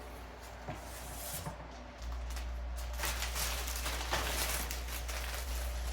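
Thin plastic window-insulation film crackling as it is handled. About two seconds in, a hair dryer switches on and runs with a steady hum and hiss, blowing on the film to heat-shrink it tight, while the plastic keeps crackling.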